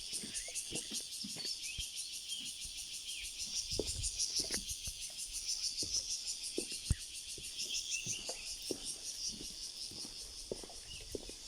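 Insects making a steady, rapidly pulsing high-pitched drone, with birds chirping now and then and scattered soft knocks and taps throughout.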